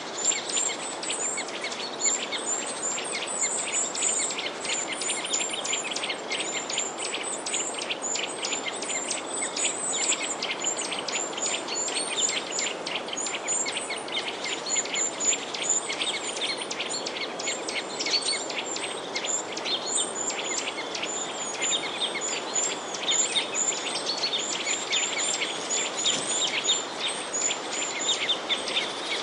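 A flock of small songbirds chirping continuously, many short, high chirps overlapping densely, over a steady background hiss.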